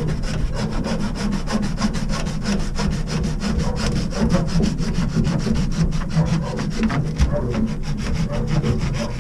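A saw cutting through plastic ABS drain pipe in quick, even back-and-forth strokes, cutting out a section of the line.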